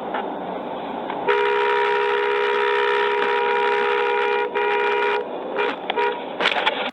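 A car horn blaring, held for about four seconds with a brief break, then a couple of short toots, over steady road noise.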